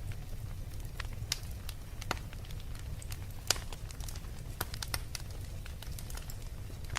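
Fireplace fire crackling: irregular sharp pops and snaps over a steady low rumble, with one louder pop about three and a half seconds in.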